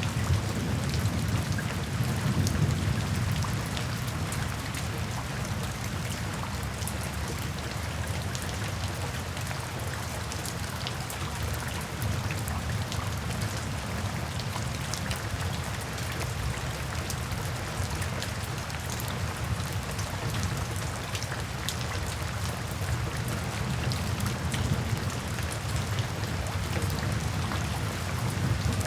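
Steady rain falling, an even hiss with the fine patter of individual drops. A low thunder rumble dies away over the first few seconds.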